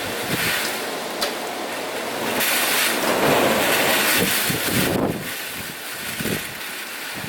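Strong typhoon wind gusting across the microphone, swelling into its loudest gust about two and a half seconds in and easing off after about five seconds.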